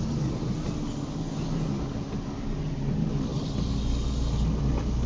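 Car driving in the rain: steady engine hum and road noise, the low rumble growing stronger about three and a half seconds in.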